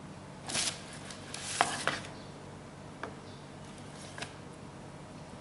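Handling noise from the sneakers and their box packaging: two short rustles in the first two seconds, then a few soft clicks and taps.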